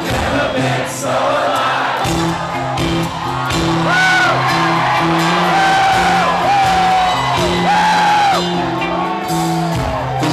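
Live rock band playing, with a singer holding long notes that slide into and out of pitch from about four seconds in, over steady bass and keyboard chords, in a loud concert hall with the crowd whooping.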